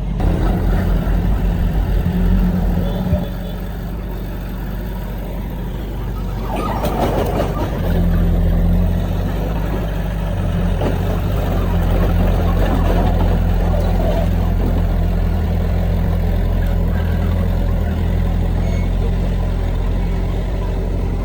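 Heavy earthmoving machinery's diesel engine running, getting louder about 8 seconds in, with a short burst of rattling noise about 7 seconds in.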